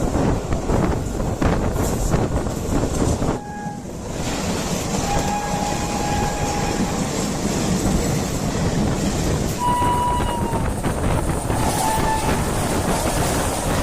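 Train running along the track with a steady rumble and clatter. High steady tones sound over it several times, from about five seconds in.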